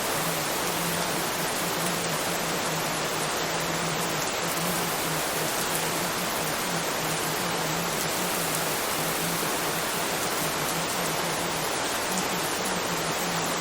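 Steady rain, an even hiss with no change in level. Beneath it, a low hum flickers on and off.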